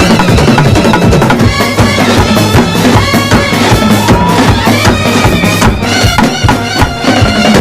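Kerala festival band playing: loud, fast drumming on bass drum and snare under a melody carried by wind instruments.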